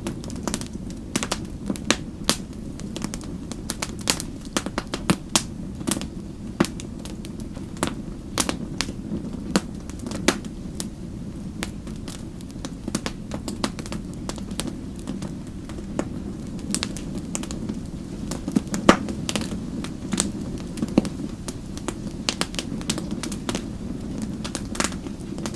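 Fire crackling: many sharp, irregular pops and snaps over a steady low rumble of the flames.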